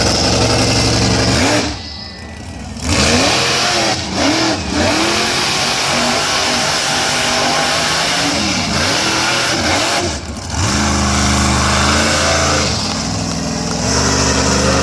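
Monster truck engine revving hard, its pitch repeatedly rising and falling as the throttle is blipped, and briefly dropping off about two seconds in and again about ten seconds in.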